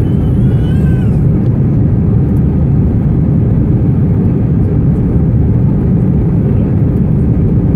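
Steady engine and airflow roar of a British Airways Airbus A319 during its takeoff, heard from inside the passenger cabin. The roar is deep and constant.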